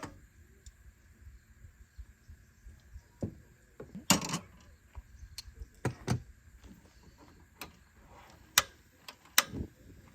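Scattered knocks and clicks of camp cooking gear being handled, with a few louder knocks spread through.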